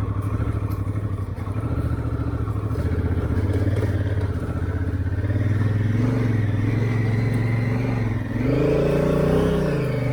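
Honda Africa Twin's parallel-twin engine pulling at low revs through soft, boggy ground, then revving up and falling back again near the end.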